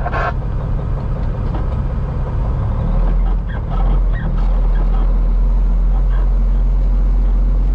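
Peterbilt semi truck's diesel engine running, heard from inside the cab as a steady deep drone. About three seconds in the drone deepens and grows stronger, then holds steady.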